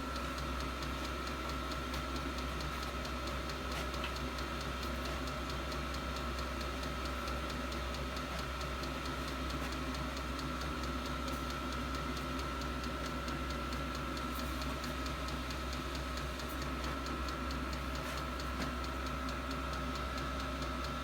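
8 kW 12 V all-in-one diesel heater running steadily: a constant blower hum with a steady high whine and regular ticking from its fuel dosing pump.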